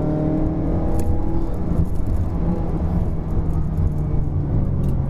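Engine of a 2019 Mazda3 1.5-litre liftback, heard from inside the cabin, pulling at a steady pitch that sinks a little near the end, over steady road and tyre rumble. A single light click comes about a second in.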